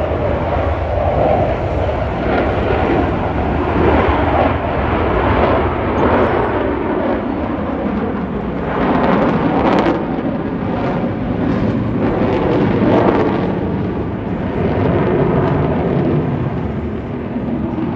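Blue Angels F/A-18 jets passing in diamond formation: a loud, continuous jet-engine roar that swells and fades several times as the jets go by.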